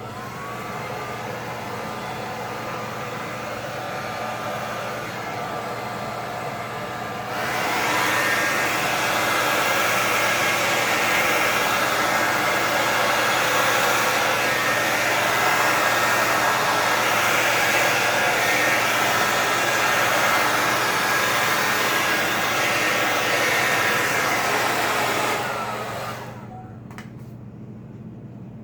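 Hand-held hair dryer blowing air onto wet acrylic paint: it spins up, runs steadily, gets louder about seven seconds in, then winds down and clicks off near the end.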